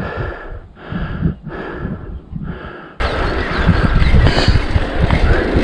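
A cyclist breathing hard in quick, regular breaths for about three seconds, then an abrupt cut to a mountain bike rolling fast on tarmac: steady tyre and wind noise with clicks and rattles.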